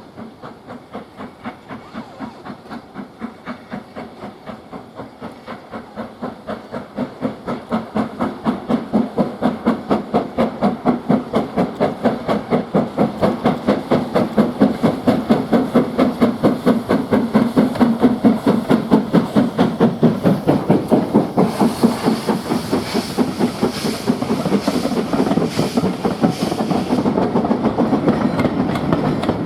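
Steam locomotive working under power, its exhaust beats coming about four a second and growing steadily louder as it approaches. About two-thirds of the way in, a hiss joins the beats and they become less regular as it comes close.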